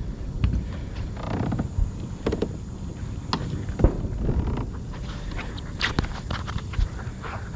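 Irregular knocks and clatter of gear being handled in a kayak, over a steady low rumble.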